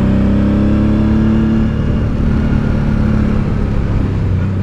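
Honda Deauville 650's V-twin engine pulling under load while overtaking, its revs climbing just as the sound begins, then holding steady and easing off slightly.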